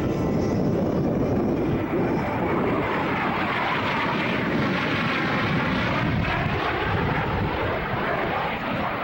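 Airplane flying by: loud, steady engine noise with a sweeping, changing tone through the middle.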